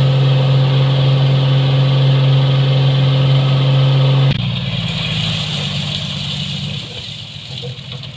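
Construction machine's engine running at a steady speed, loud and even, then about four seconds in the sound changes abruptly to a quieter, rougher engine sound that fades.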